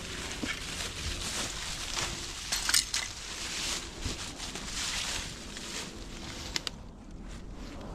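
Metal clinks and rustling from a hand-ratchet come-along and its straps being handled and hooked up, with a few sharp clicks along the way.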